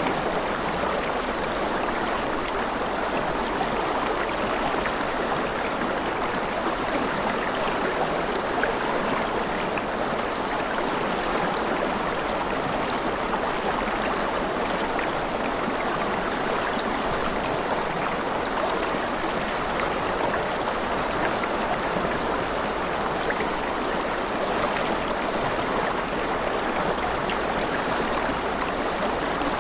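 Rushing river water flowing steadily, an even rush with faint gurgling and splashing.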